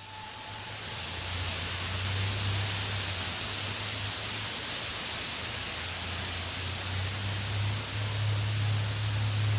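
Steady hiss with a low hum underneath and no distinct events.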